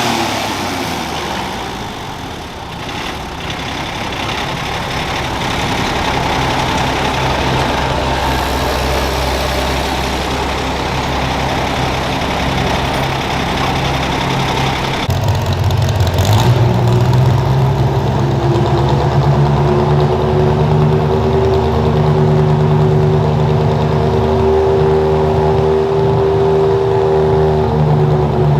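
Garden tractor engine running hard under a pull. Its pitch jumps up sharply about halfway through, then holds steady with slight rises and falls.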